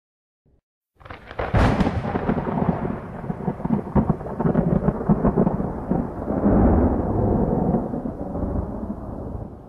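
Thunder: a sudden crash about a second in, then a long crackling rumble that slowly eases off near the end.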